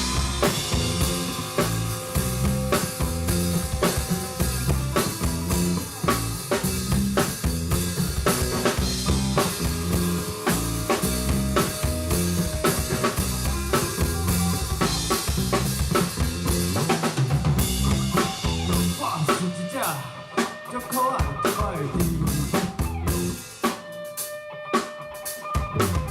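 Band playing live, with a drum kit (kick, snare and rimshots) driving a steady beat under the other instruments. About twenty seconds in, and again near the end, the bass and kick drop out for a moment before coming back.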